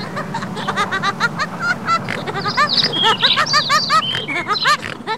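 Birds chirping rapidly, many short rising-and-falling chirps overlapping, over a steady low hum.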